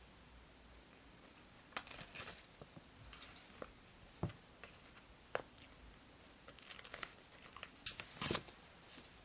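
Quiet handling of paper and stationery on a desk: scattered crinkles and small taps and clicks, with a cluster of louder ones near the end.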